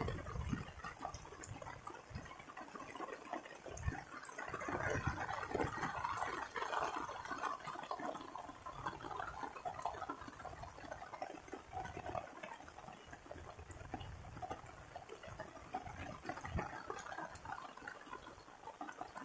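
Rain pattering on water: a dense mass of small drips and splashes over a steady hiss, swelling louder a few seconds in, with a few soft low thumps.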